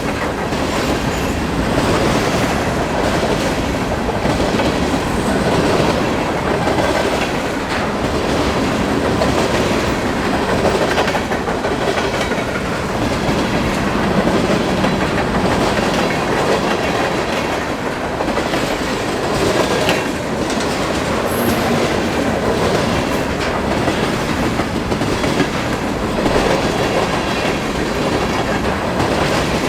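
A train rolling steadily past, close by, its wheels clicking over the rail joints in a regular rhythm.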